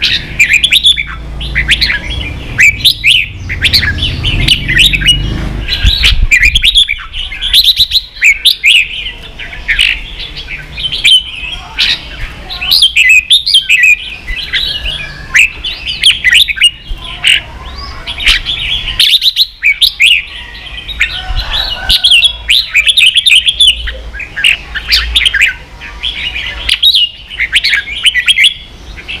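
Red-whiskered bulbul singing: rapid, busy phrases of high chirps and whistled notes, broken by short pauses every few seconds.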